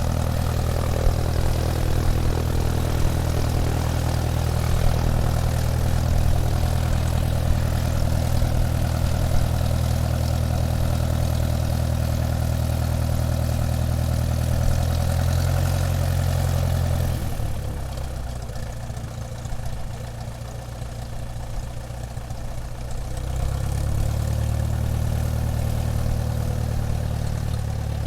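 Small propeller plane's piston engine running with a steady drone. About 17 seconds in it eases off, lower and quieter, then comes back up to its earlier level about six seconds later.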